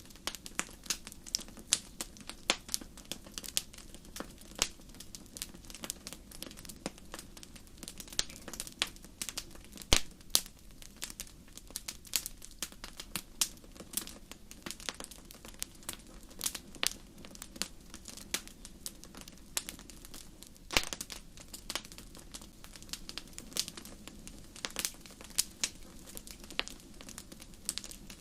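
Campfire crackling: irregular sharp pops and snaps of burning wood, several a second, over a low steady background, with a louder pop about ten seconds in and another about twenty-one seconds in.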